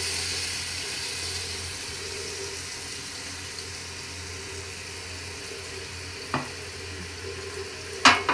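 Onion masala frying in oil in a cooking pot, sizzling steadily and easing off a little as red lentils are tipped in from a bowl. A faint click about six seconds in, then a sharp knock near the end.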